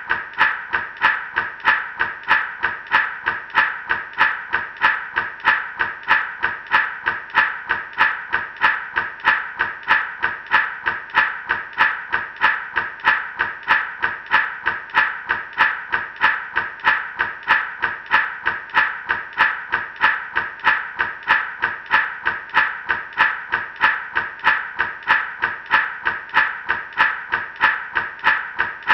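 Gourd rattle shaken in a steady, even rhythm, about two and a half shakes a second, its seeds rattling against the dry gourd shell.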